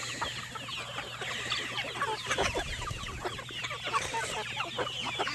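A large flock of chickens clucking and chirping together, many short overlapping calls.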